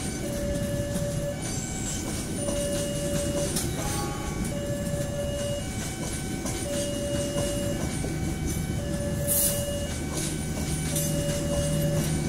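Passenger train cars rolling past close by, with steady wheel-on-rail rumble and clatter, while a level-crossing warning alarm repeats an electronic tone, about a second on and a second off. A low steady hum grows in over the last few seconds.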